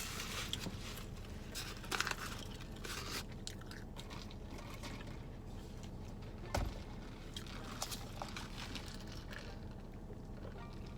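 A person chewing and biting crunchy food, with scattered crisp crunches, the sharpest about two seconds in and again past the middle.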